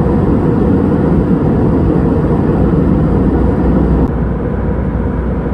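Steady, loud rumble of an Airbus A319's jet engines and rushing air heard from inside the passenger cabin. About four seconds in, the hiss thins and the sound gets slightly quieter.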